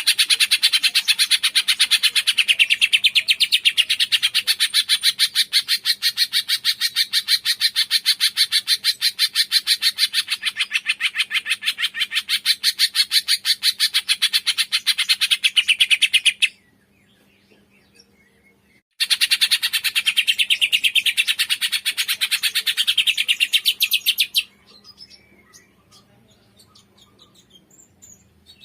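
Cungkok bird singing a long, fast, even trill of sharp chirps. It breaks off at about sixteen seconds, starts again about two seconds later for another five seconds or so, then goes quiet apart from faint calls.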